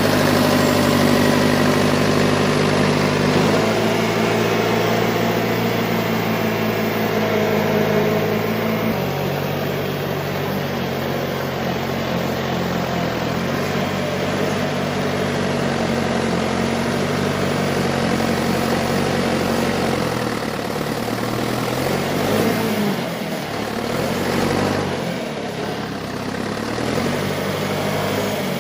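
John Deere 410 loader backhoe's engine running, mostly at a steady idle, with the engine speed shifting up and down a few times.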